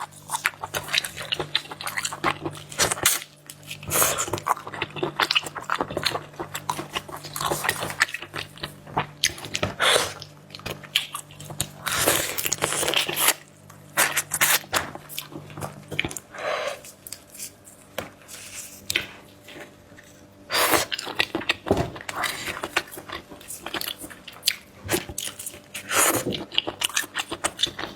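Close-miked eating of seafood: chewing and crunching with many irregular clicks, smacks and crackles.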